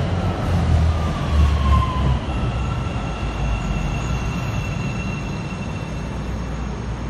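CTA 5000-series rapid-transit railcars moving through the station: a low rumble of wheels on track, loudest in the first two seconds and then easing off. Thin high whining tones run over it, one sliding down in pitch at the start.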